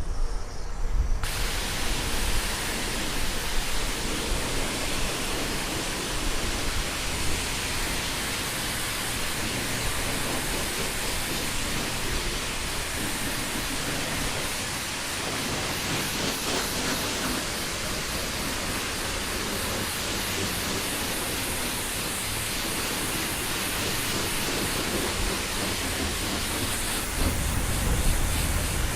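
Self-serve car wash pressure wand spraying clear coat onto a motorcycle: a steady hiss of high-pressure spray that starts about a second in, with a deeper rumble joining near the end.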